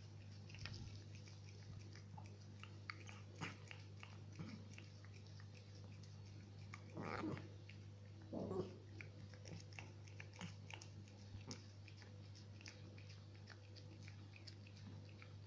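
Cat chewing and smacking on banana: many small wet clicks of chewing, with two louder short sounds about seven and eight and a half seconds in, over a low steady hum.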